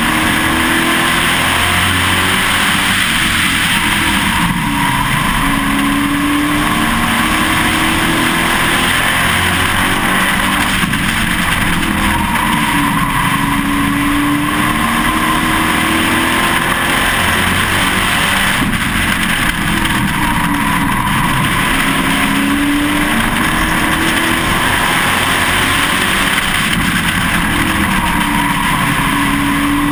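Pro Truck race truck's engine at racing speed heard from inside the truck, its pitch climbing and dropping back every few seconds as it accelerates and lifts, over steady wind and road noise.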